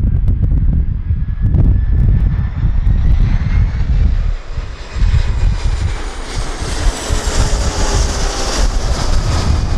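Jet airliner on approach to land, its engine whine and roar building steadily louder and peaking near the end as it passes close. Heavy wind buffets the microphone throughout.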